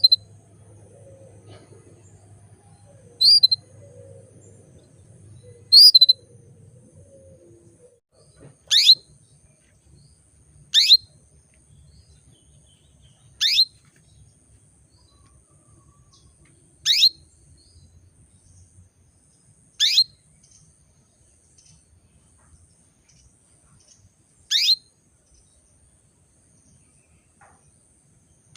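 Female canary giving single short chirping calls every two to four seconds, about ten in all; the first few rise, the later ones are quick downward sweeps. They are the calls of a hen in breeding condition calling a male.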